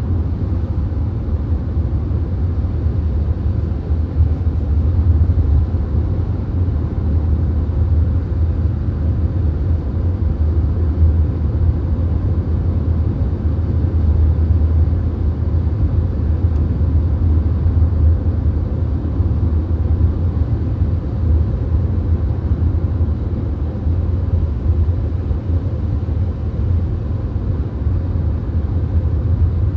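Steady low rumble of a VW Golf cruising at motorway speed, heard from inside the car: road, tyre and engine noise with no distinct events.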